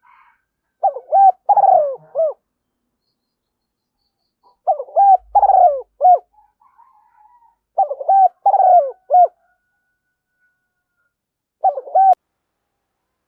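Spotted dove cooing: four phrases of curving, down-sliding coos, the last one short. This is a lure call meant to draw in wild doves.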